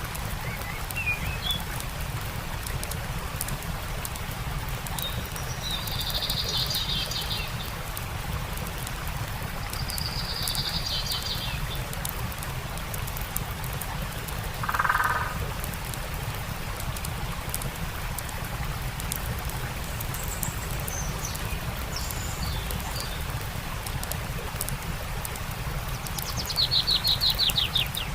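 Campfire crackling over the steady rush of a stream, with songbirds calling: short chirping phrases, a lower call midway, and a loud rapid trill near the end.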